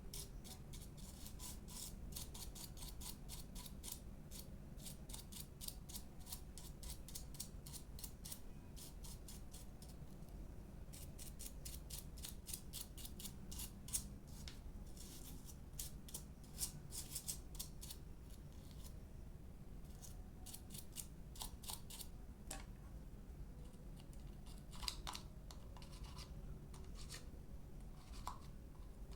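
Quick, scratchy strokes in bursts of several a second with short pauses between: a small hand tool scraping or brushing accumulated dirt and hair out of a hair dryer's fan and housing.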